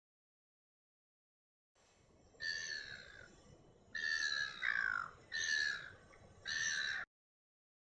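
A bird giving four harsh, drawn-out calls over a light background hiss. The recording cuts in about two seconds in and cuts off abruptly near the end.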